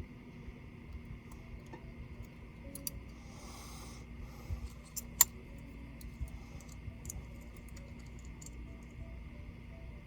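Scattered light clicks and taps of small laptop parts being handled during disassembly, with one sharp click about five seconds in, over a faint steady hum.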